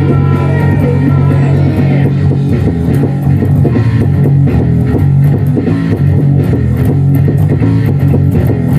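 Thunderbird electric bass playing a rock bass line along with a full band track of electric guitars and drums.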